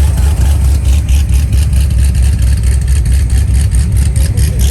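Car engine rumbling loudly as the car rolls slowly past at low speed, a deep, pulsing exhaust note.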